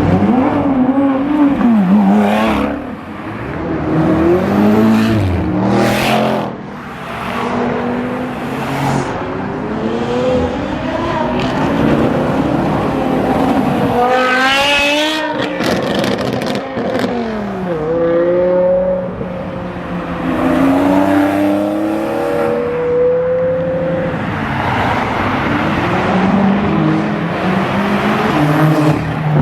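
Car engines revving over and over, the pitch climbing and falling with each blip of the throttle. The highest, sharpest rev comes about fourteen seconds in.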